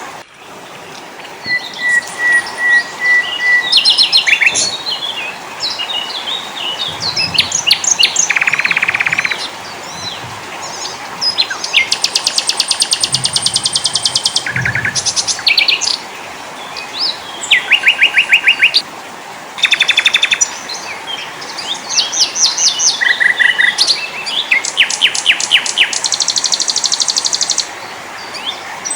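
Songs and calls of several small songbirds, spliced one after another and overlapping: rapid high trills, chips and short whistled phrases that switch abruptly from one bird to the next, over a steady background hiss.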